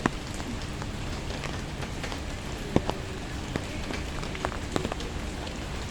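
Rain falling, a steady patter with scattered sharper drops tapping at irregular moments.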